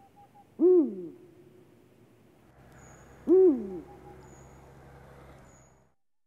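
A bird calls twice, about two and a half seconds apart, each call short and rising then falling in pitch.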